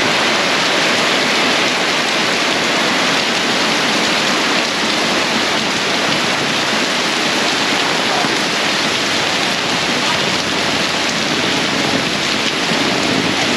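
Torrential rain pouring down: a steady, loud hiss of heavy rain.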